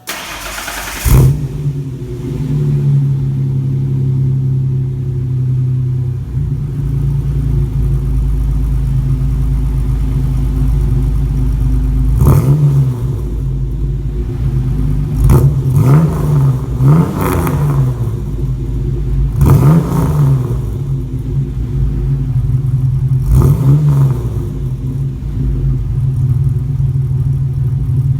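Ford 4.0L OHV V6 exhaust through 3-inch piping with no catalytic converters and a Magnaflow muffler: the engine starts about a second in and settles to a steady idle. In the second half it is revved in several short throttle blips that rise and fall back to idle.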